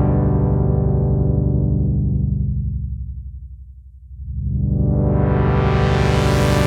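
Analog polyphonic synthesizer holding a sustained low note or chord while its low-pass filter sweeps closed. The tone dulls to a muffled hum about three to four seconds in, then the filter opens again to a bright, buzzy tone.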